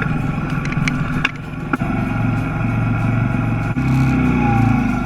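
Small 50cc kids' dirt bike engines running at low revs, a steady buzzing drone. The engine note changes suddenly, deeper and stronger, a little before the end.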